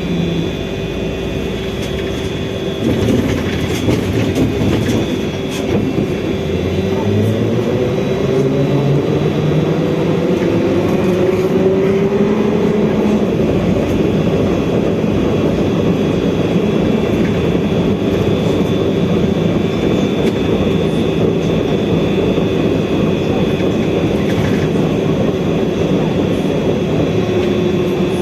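Trolleybus running under way: its electric traction motor whines in steps rising in pitch as it accelerates over roughly the first dozen seconds, over a steady rumble of road and body noise. The whine eases down slightly near the end.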